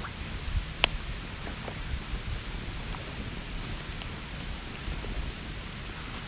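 Small wood fire crackling in a FIREBOX stove: scattered sharp pops over a steady hiss, with one loud pop about a second in.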